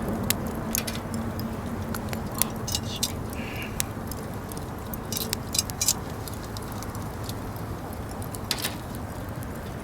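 Hot charcoal crackling and popping in a Uniflame Fire Grill fire pit: irregular sharp pops, some in quick clusters, over a steady low rush.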